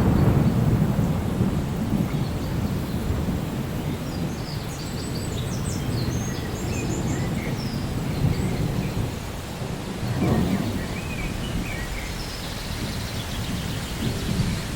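Thunderstorm: steady rain with rolling thunder. A low rumble fades out at the start and a shorter one comes about ten seconds in. High bird chirps sound faintly through the middle.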